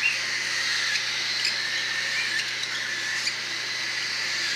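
Young cockatiels giving short, scattered chirps over a steady background hiss with a faint low hum.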